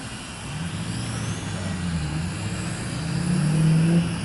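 A motor humming with a wavering pitch, growing louder toward the end and then dropping off suddenly.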